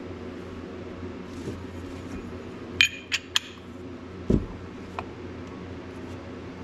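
Hard bait-making gear being handled: three quick clinks about three seconds in, then a dull knock a second later, over a steady low hum.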